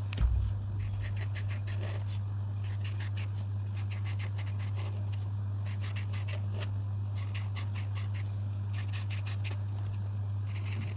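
Coloring strokes on paper: groups of quick back-and-forth scratchy strokes with short pauses between them. A steady low hum runs underneath, and there is one dull thump just after the start.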